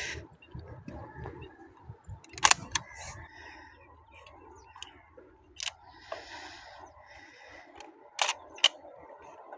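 Gun being handled and readied: a few sharp mechanical clicks, two close together about two and a half seconds in, one more near the middle and another pair near the end, with soft handling rustle between.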